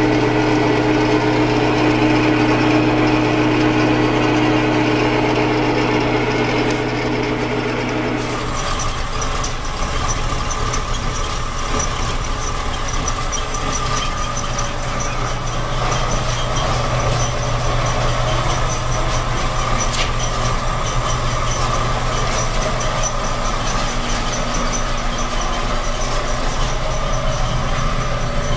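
A workshop machine running steadily. About eight seconds in its sound changes to a higher squealing tone with a fast, even ticking.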